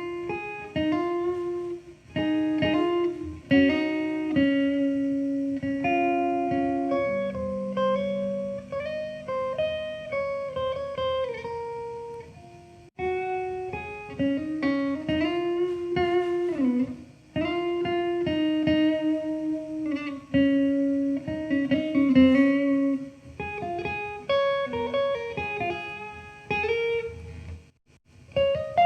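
Guitar playing a slow melody over lower accompanying notes, with a few bent or sliding notes and short pauses between phrases.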